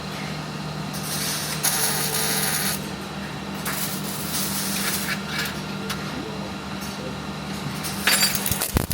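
Short bursts of welding hiss and crackle, with metal pieces clinking near the end, over a steady low electrical hum.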